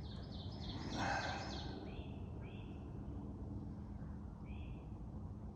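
A bird calling: a quick run of repeated high notes, then a few short separate chirps spaced a second or two apart, over faint steady background noise.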